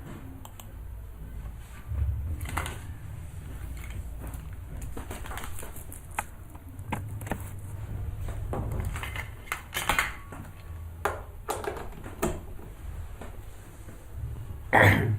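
Irregular clicks and light knocks, like typing or handling something on a desk, over a steady low hum, with a louder short burst near the end.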